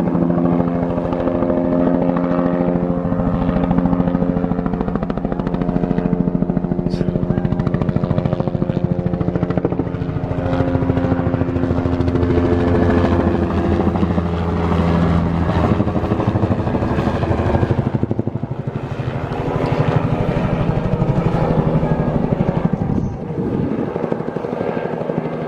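Helicopter flying low overhead, a loud steady rotor chop with a hum of pitched tones whose pitch sits lower for a while about halfway through.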